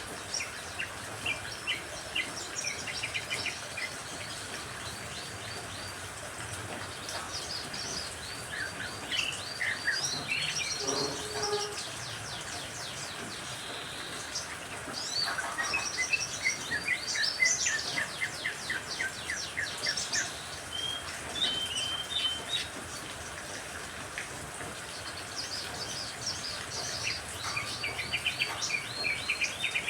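Songbirds of a mixed recording (cucak ijo, canary, lovebird and others) chirping and singing in rapid trills of repeated notes, with short whistled notes near the end, over a steady hiss of rain.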